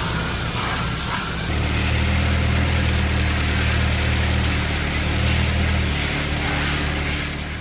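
Restored VW Caddy Mk1's petrol four-cylinder engine running steadily at idle, its low note growing stronger about a second and a half in.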